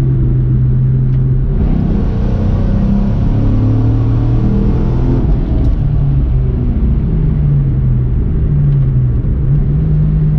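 2004 Ford Mustang Mach 1's 4.6-litre four-valve DOHC V8 accelerating hard: about a second and a half in the engine note climbs steadily for a few seconds, drops back at a gear change, then settles to a steadier drone as the car runs on.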